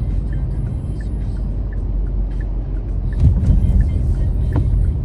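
Car driving on a snowy road, heard from inside: a steady low rumble of road and engine noise, with a few faint ticks and a sharp click near the end.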